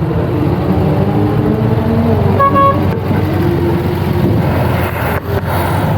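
Cars running with a steady rumble, and one short car-horn toot about two and a half seconds in.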